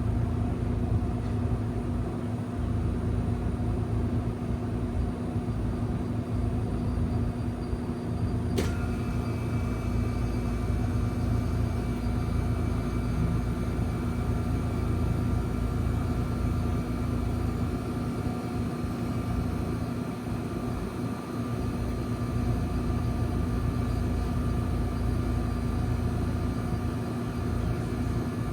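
Two Trane XL heat pump outdoor units running in cooling mode with a steady hum. About nine seconds in comes a sharp click, after which a higher steady whine joins the hum.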